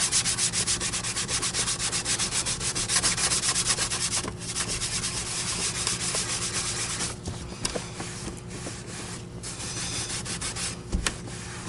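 Quick, even back-and-forth scrubbing strokes on the metal body of an Electrolux canister vacuum, rubbing off magic-marker stains, with a few short pauses between bouts.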